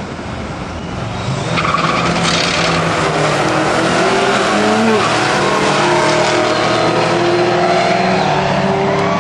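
Twin-turbo 350 small-block V8 of a 1980 GMC stepside pickup running hard with its tyres squealing, getting louder about a second and a half in.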